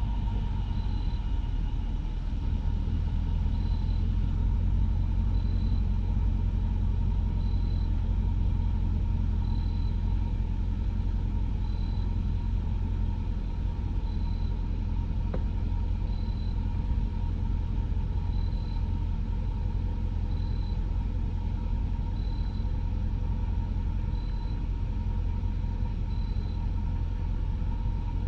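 2015 Mercedes-Benz S550's twin-turbo V8 idling steadily with a deep exhaust rumble, its resonators deleted, just after the engine has fired up.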